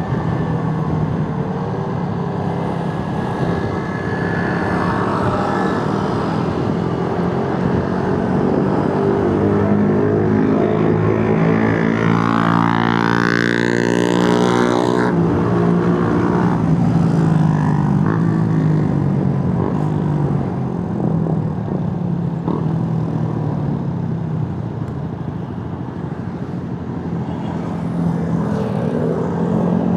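Motorcycle riding through city traffic: steady engine and road-and-wind noise. About twelve seconds in a louder stretch with a sweeping engine pitch rises over it for a few seconds and cuts off abruptly.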